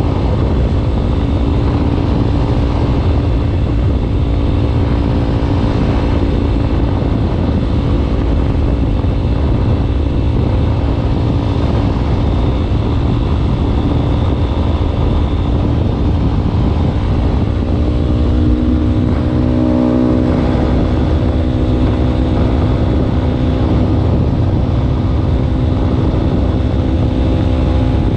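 Yamaha Ténéré 250's single-cylinder four-stroke engine running steadily through a Wacs aftermarket exhaust end can, its note shifting slightly in pitch around two-thirds of the way through.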